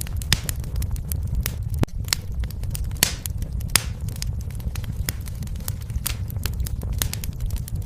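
Wood fire burning in a fireplace, crackling with many irregular sharp snaps and pops over a steady low rumble of the flames. Two louder pops come about three seconds in.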